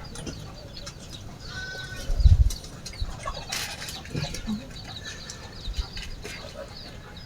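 Farm animals calling at intervals, with a single dull thump about two seconds in.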